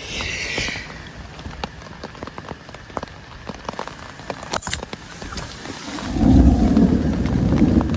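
Heavy rain with many separate drops tapping. About six seconds in, a loud low rumble sets in and holds.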